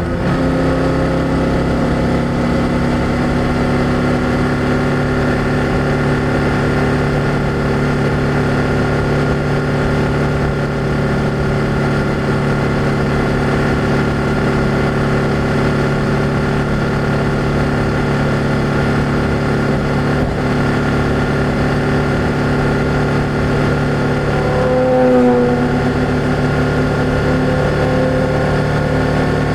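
BMW F800GS motorcycle's parallel-twin engine running at steady cruising revs, its exhaust note holding an even pitch, with a brief rise and dip in revs near the end.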